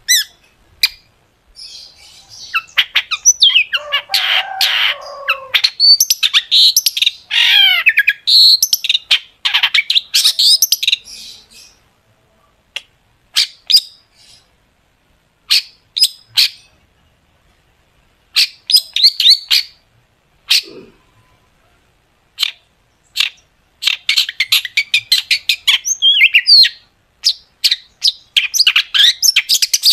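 Long-tailed shrike (cendet) singing in fast runs of sharp, high-pitched notes and trills, thinning to scattered single calls with pauses in the middle before another dense run near the end.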